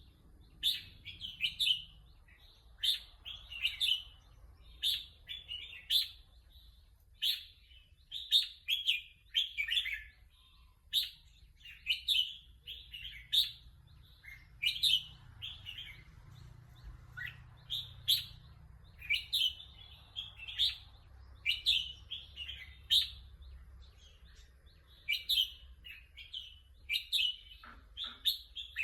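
Red-whiskered bulbul singing, short bright phrases one after another about every second, with only brief pauses.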